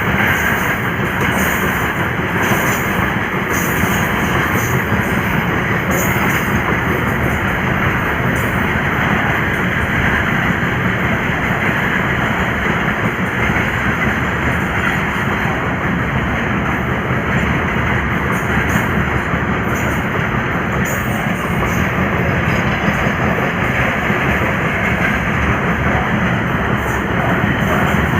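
Indian Railways goods train rolling past, a loud steady rumble and rattle of its wheels on the track.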